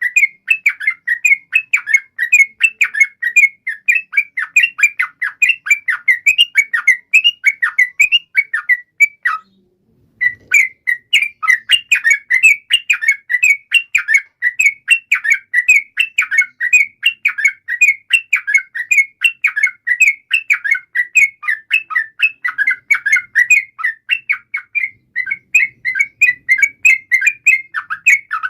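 Yellow-vented bulbul (trucukan) song, a rapid continuous chattering run of short bubbly notes. It breaks off for under a second about a third of the way in, then resumes.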